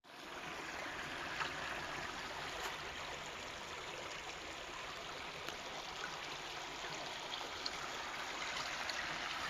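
Creek water running steadily over rocks, a continuous trickling and gurgling with a few faint clicks.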